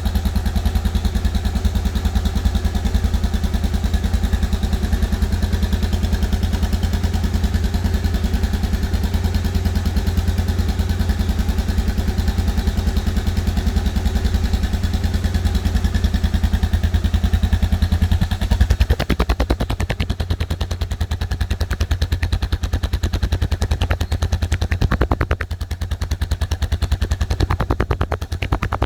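Suzuki DR650's single-cylinder four-stroke engine running with a steady, rapid exhaust beat, a little quieter from about two-thirds of the way in.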